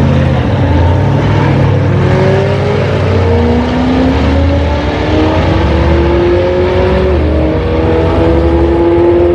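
Twin-turbo Ford Boss 302 Mustang V8 at full throttle on a drag-strip pass, its engine pitch climbing steadily and dropping sharply at an upshift about seven seconds in.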